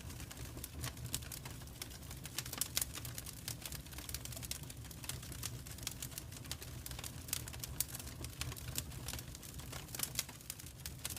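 Wood fire in a fireplace crackling, with quick irregular snaps and pops over a low steady rumble.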